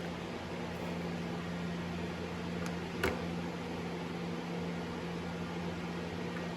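Steady electric motor hum with a constant low tone, and a single sharp click about three seconds in.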